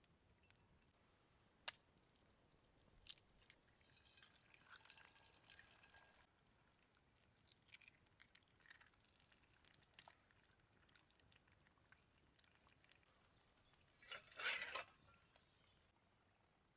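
Faint sounds of eggs being fried: scattered small clicks and taps, a soft hiss about four seconds in, and a short, louder burst of hiss near the end.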